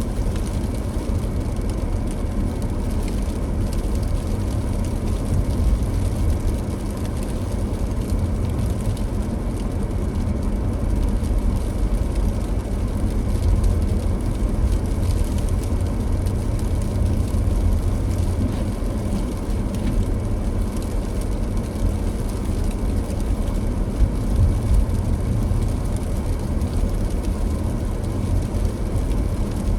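Car driving: a steady low rumble of tyres and engine on the road.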